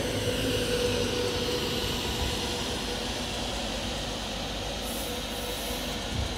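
Train running through a station: a steady rumble of wheels on rails with a steady whine over it, easing off slightly toward the end.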